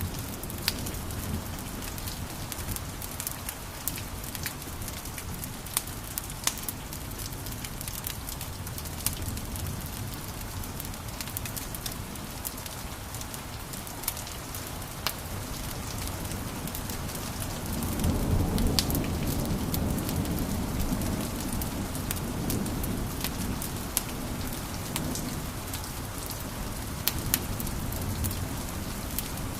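Wood fire crackling in a fireplace, sharp pops scattered over a steady hiss, with a low rumble of the flames swelling about two-thirds of the way through.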